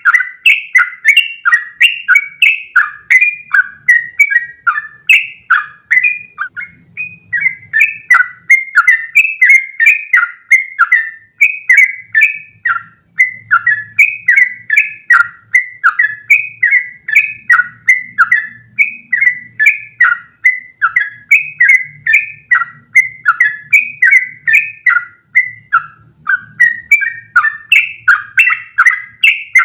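Yellow-vented bulbul (trucukan) singing a long unbroken run of quick chirping notes, about three a second, the kind of long one-breath song that bird keepers call ropel.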